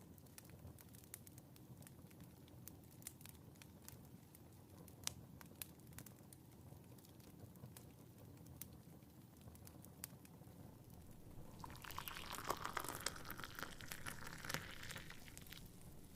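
Faint fireplace fire crackling, with scattered sharp pops over a low rumble. Near the end a soft rustling sound lasts about four seconds.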